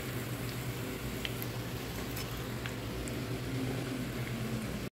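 Breaded bread rolls shallow-frying in hot oil in a pan: a steady sizzle with a few small pops, over a low steady hum.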